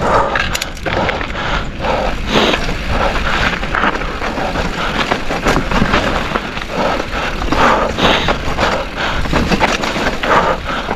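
Mountain bike riding down a rough dirt trail: tyres rolling and crunching over dirt and stones, with constant rattles and knocks from the bike over bumps.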